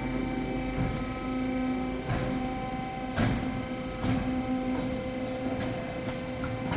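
Steady mechanical hum with a few sharp knocks roughly a second apart.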